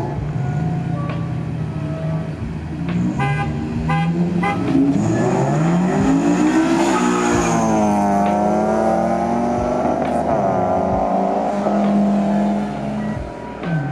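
Car engine going from a steady run to hard acceleration, its pitch climbing, dropping briefly at each gear change and climbing again, then easing off near the end; a few short clicks just before it pulls away.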